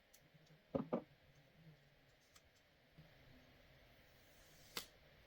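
Light clicks and knocks: two quick knocks close together about a second in, a sharper click near the end, and faint ticks in between.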